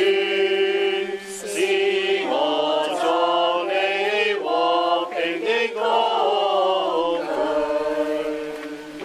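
Voices singing a slow religious chant in long held notes that glide gently between pitches, fading away near the end.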